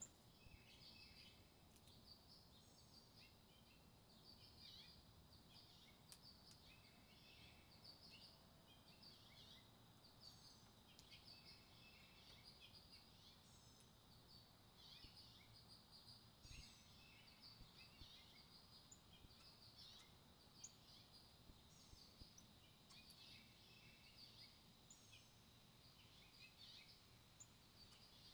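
Faint wild birdsong: many short chirps and quick trills from several birds, repeating throughout over a soft background hiss.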